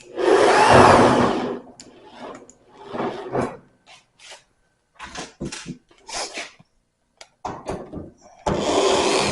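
Power drill backing out screws from a dryer's sheet-metal panel: a motor whine that rises and falls in a burst of about a second and a half at the start and again near the end, with short clicks and knocks of screws and metal between.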